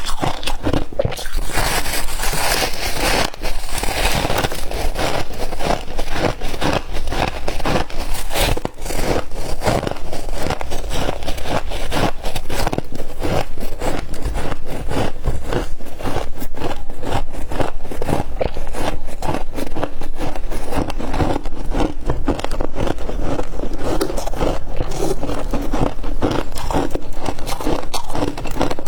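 Close-miked crunching and chewing of crispy humidifier ice: a dense, continuous run of crackling crunches with scraping sounds.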